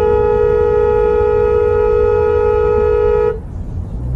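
Car horn held down in one long, steady blast, cutting off about three seconds in.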